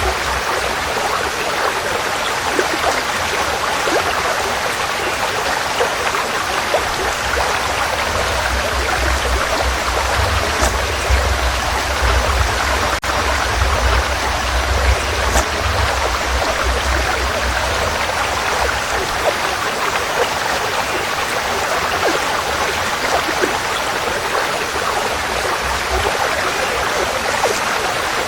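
Forest stream flowing, a steady rush of running water. A low rumble comes in under it for about ten seconds midway.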